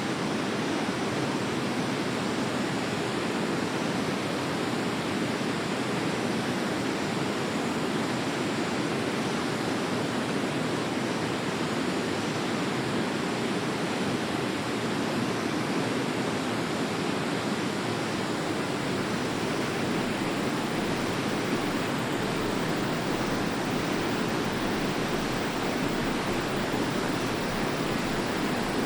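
Forest river flowing: a steady, even rush of water with no breaks.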